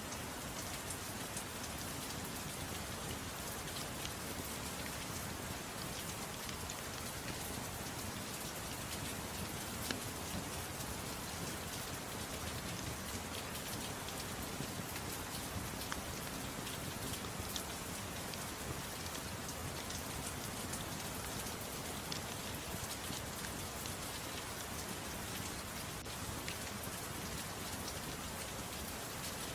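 Steady soft rain falling, an even hiss with scattered sharp ticks.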